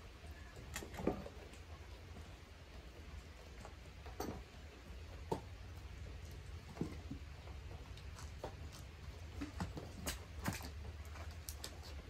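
Rain falling: irregular drops tapping on nearby surfaces over a faint hiss and a low steady rumble.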